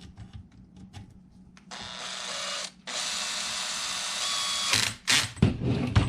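Small power driver running in two spells, one about a second long and a longer one of about two seconds, with light clicks of handling before it and a louder short burst near the end, as screws are driven into an RC truck's frame.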